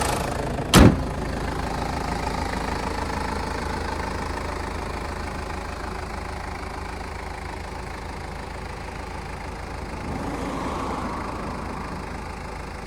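Toyota Land Cruiser Prado KZJ78W's 3.0-litre turbo-diesel engine idling steadily with a diesel clatter. A single sharp knock comes about a second in.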